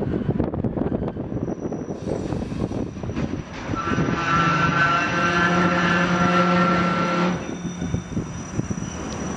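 Diesel-hauled freight train of container wagons rolling slowly past, with a continuous rumble and clatter of wheels on rail. About four seconds in, a loud droning pitched tone from the locomotive steps up and holds for about three seconds, then stops abruptly. A faint high squeal runs over it.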